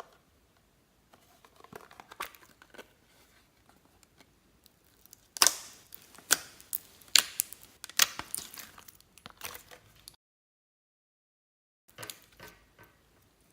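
Slime being worked by hand, with sticky crackling clicks and pops, faint at first and then busy and louder. The sound cuts out completely for almost two seconds, then a few more pops follow.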